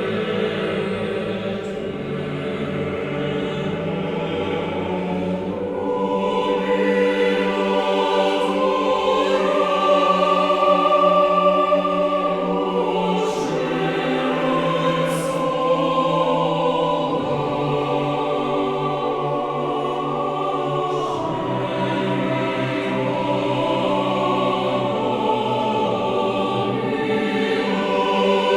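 Choral music with sustained, slowly changing chords, swelling slightly louder partway through.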